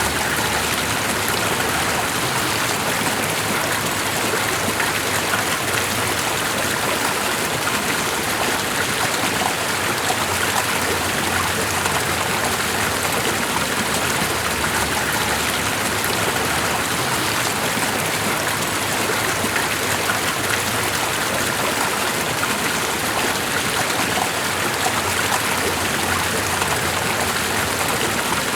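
Steady rushing water: a continuous, even hiss with no breaks or separate drops standing out.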